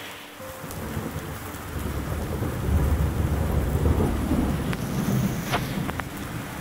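Thunder rumbling over a heavy rain shower, the rumble swelling to its loudest about halfway through and then easing while the rain hiss carries on.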